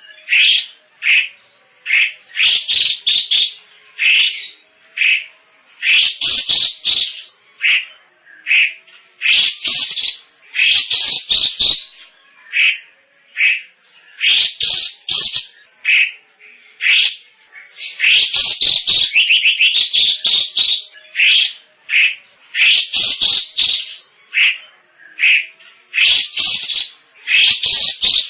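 A cucak cungkok songbird singing loud, rapid, chattering phrases of high notes, repeated again and again with short pauses between them.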